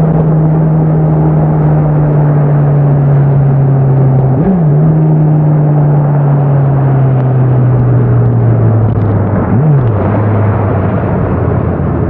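Honda CBR650R's inline-four engine and exhaust under way, the revs sinking slowly as the bike slows, with two brief throttle blips, about four and a half seconds in and again near ten seconds in, after which the revs settle lower. Wind rush runs underneath.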